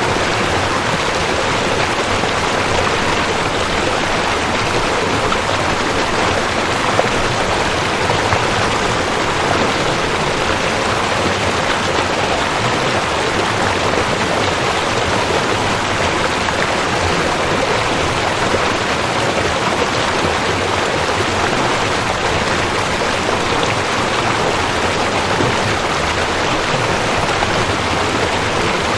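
Rushing creek: water running over rocks in a steady, unbroken rush.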